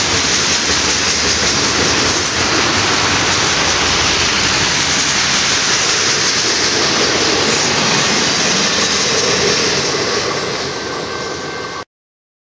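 Union Pacific double-stack container train rolling past: a loud, steady noise of wheels on rail and the passing well cars. It eases a little near the end, then cuts off abruptly.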